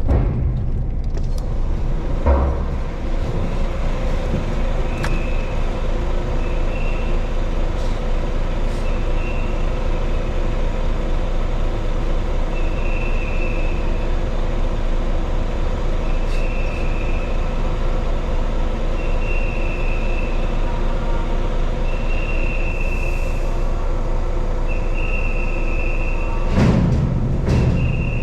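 Heavy truck's diesel engine running steadily as the truck moves onto a ferry's vehicle deck, with a short high beep repeating about every three seconds. There is a low thump a couple of seconds in and a louder low rumble near the end.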